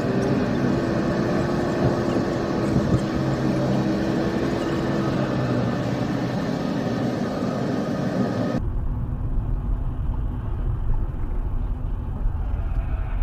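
A vehicle driving, steady engine and road noise with a held droning tone. About two-thirds through it cuts abruptly to a lower, duller rumble of another vehicle recording.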